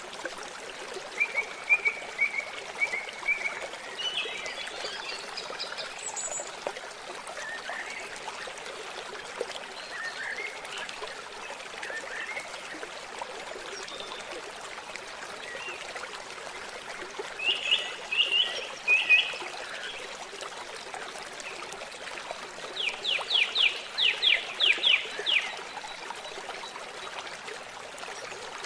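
Water trickling steadily at a lakeside, with birds calling over it: scattered short chirps, a louder burst of calls past the middle, and a quick run of about ten sharp notes near the end.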